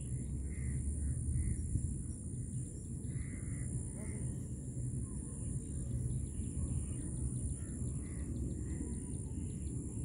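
Outdoor ambience: birds calling now and then, short soft calls, over a steady low rumble, with a thin steady high-pitched whine above it.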